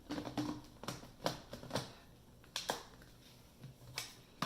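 Plastic clicks and taps from the parts of a cordless handheld vacuum being handled and fitted together. The clicks come in quick succession at first, then fall to a few single clicks.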